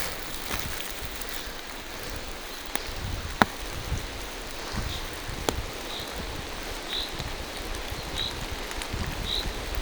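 Steady rain falling through forest trees, with scattered sharp drip taps, one louder tap a few seconds in. From about halfway through, a distant bird repeats a short high call about once a second.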